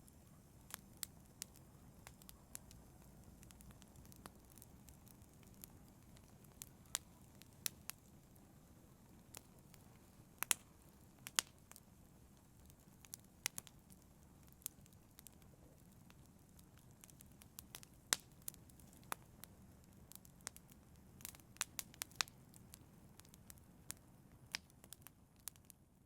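Wood fire crackling in a fireplace: irregular sharp pops and snaps, a few louder than the rest, over a faint steady low rumble of burning.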